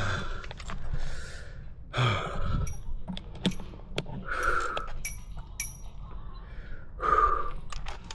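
A person breathing hard, with loud gasping breaths every one to two seconds, a sign of exertion. A few short, sharp clicks fall around the middle.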